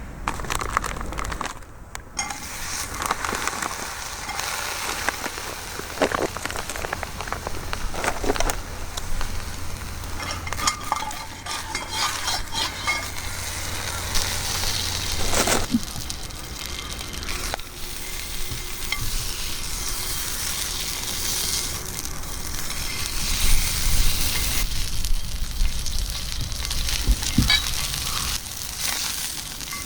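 Pancake batter sizzling and frying in a lightly oiled turk iron frying pan over a wood fire. The sizzle is steady, with scattered sharp crackles and clicks.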